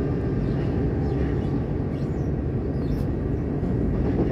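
Steady low rumble of an electric passenger train running at speed, heard from inside the carriage.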